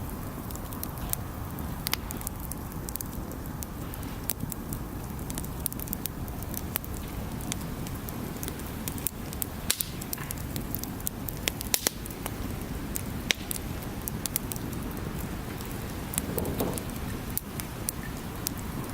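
Wood bonfire crackling, with frequent sharp pops and snaps at irregular intervals over a steady low rumble.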